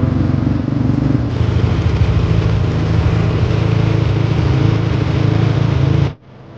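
Motorcycle engine running steadily and loudly, close by, with a fast even pulsing; it cuts off sharply about six seconds in.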